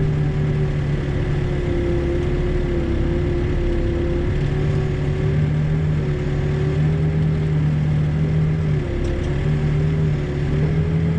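Backhoe's diesel engine running steadily during digging, its pitch dipping slightly twice as it works.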